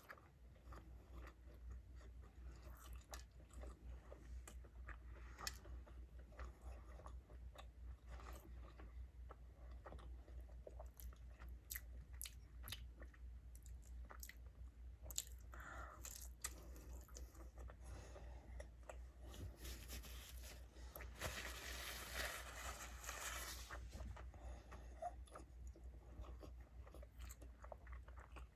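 Close-miked chewing and biting of fast food, with small wet mouth clicks and crunches throughout. About two-thirds of the way through there are a few seconds of rustling noise.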